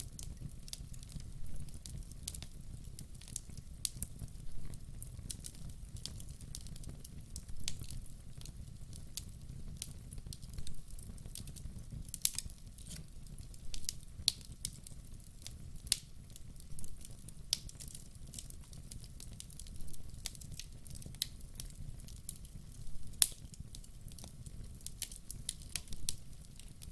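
Wood fire burning: logs crackling with frequent, irregular sharp pops over a low steady rumble of the flames.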